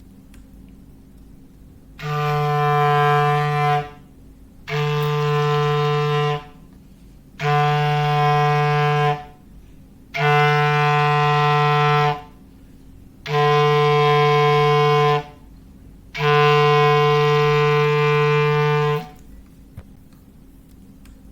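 Foghorn sound effect played on a clarinet: six long, steady, low blasts of one unchanging pitch, each two to three seconds long with short pauses between them, then a pause after the last.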